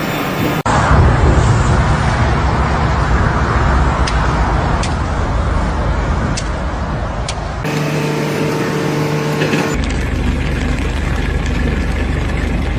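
Loud running engine noise from a vehicle or heavy machine, with steady low tones under a dense roar and a few faint ticks. The sound changes abruptly twice, about two thirds of the way in and again shortly after.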